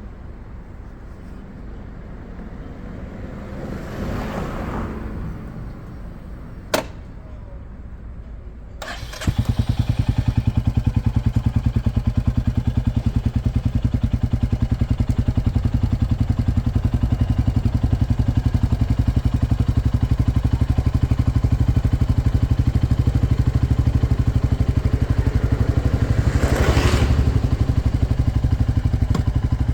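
A motorcycle engine starts about nine seconds in and then runs steadily with a fast, even pulse. A single sharp click comes shortly before it starts.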